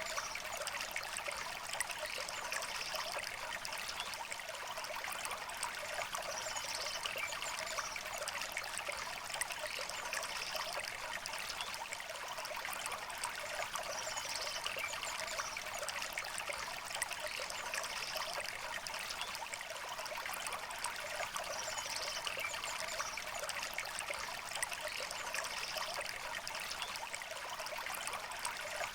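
A shallow river flowing steadily and babbling, with small birds chirping faintly every few seconds.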